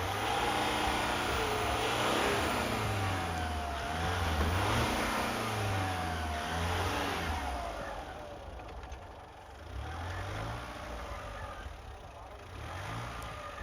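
Mitsubishi L200 pickup's engine revving up and down in repeated surges as it works through deep frozen snow, with a wavering whine rising and falling alongside it; the revving eases off about halfway through, with a couple of smaller surges near the end.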